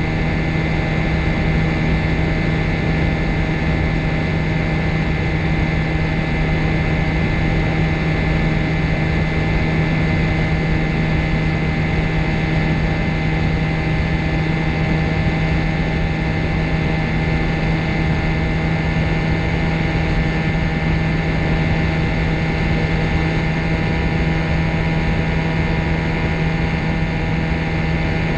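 Microlight trike's engine and propeller running at a steady speed, a constant drone with a strong low hum and fainter steady tones above it.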